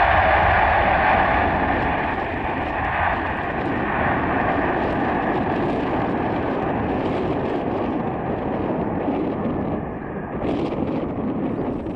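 Boeing 747-400 freighter's jet engines: a broad rumble with a whine on top, slowly fading as the landed aircraft rolls away.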